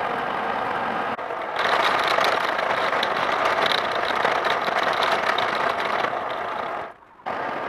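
A power tool running steadily in restoration work on rusty hammers, cut into segments: it gets louder abruptly about a second and a half in and drops out briefly near the end.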